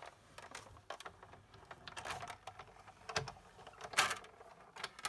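Manual die-cutting and embossing machine being cranked as a sandwich of cutting plates with thin metal leaf dies on cardstock passes through its rollers: irregular clicks and ticks, with two louder knocks about three and four seconds in.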